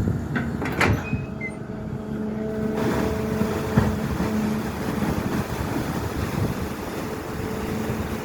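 SANY excavator's diesel engine running steadily under work, with a few sharp knocks: two just after the start and a louder one at about four seconds.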